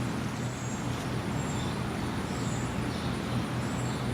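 Distant jet airliner taking off out of sight to the south: a steady low rumble with a constant hiss.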